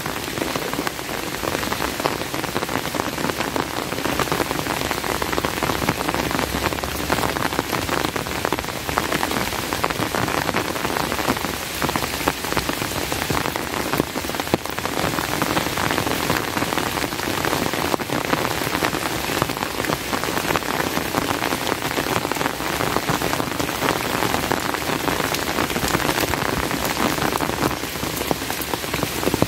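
Steady rain falling, a dense, unbroken patter of drop hits that holds level throughout.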